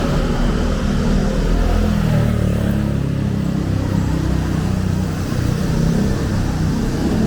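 Street traffic: cars driving past with a steady low engine and tyre rumble.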